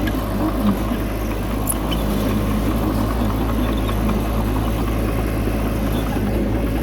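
Heavy diesel engine of earthmoving machinery running steadily at an even pitch, with faint light clicks over it.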